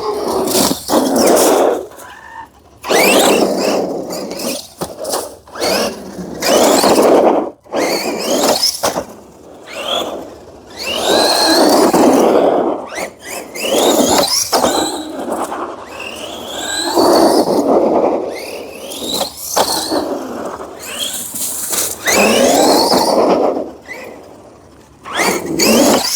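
Redcat Volcano EPX RC truck's stock brushed 540 motor whining under full-throttle bursts on a 3S LiPo, with its tyres on asphalt. The whine glides up and down in pitch and comes in about a dozen bursts, roughly every two seconds.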